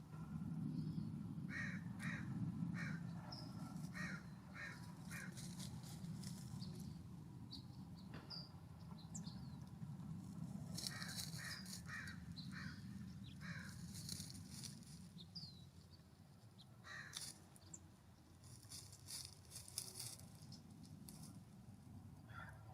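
Harsh, repeated calls of a corvid, given in several quick series of five or six short rasping notes, with faint high chirps of small songbirds between the series and a steady low rumble underneath.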